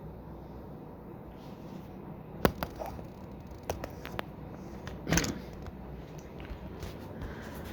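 1984 Evergo 52-inch top-mount spinner ceiling fan, with its big green motor, running on high speed: a steady hum and rush of air. A few sharp clicks come through, the loudest about two and a half and five seconds in.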